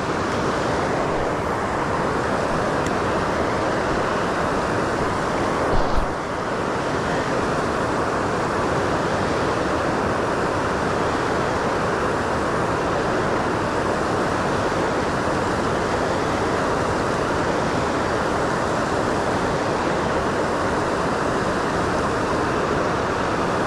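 Fast-moving creek water rushing steadily, with a brief knock about six seconds in.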